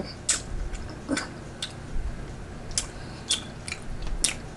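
Close-miked eating sounds: someone chewing turkey wing with a string of short, wet mouth clicks and lip smacks, several of them spread irregularly through the pause.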